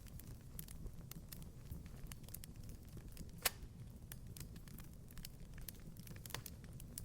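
Wood fire crackling in a fireplace: a low steady rumble of flames with scattered sharp snaps and one louder pop about halfway through.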